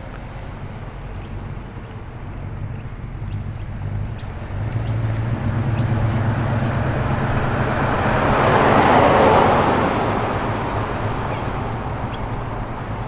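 A car driving slowly past with its engine running: a low engine hum builds from about four seconds in, peaks loudest around nine seconds as it passes close, then fades.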